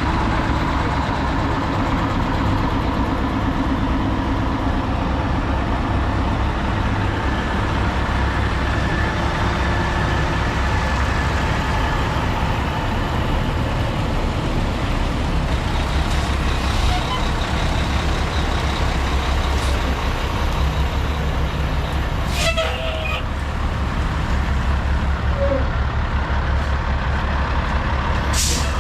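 Heavy diesel truck engine running steadily with a low, pulsing rumble. Two short sharp hisses of air cut in, about two-thirds of the way through and again near the end.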